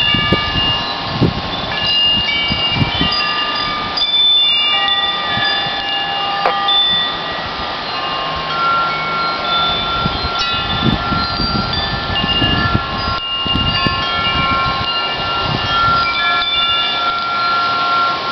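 Wind chimes ringing in the wind: many overlapping tones at different pitches sounding and fading, with gusts of wind rumbling on the microphone.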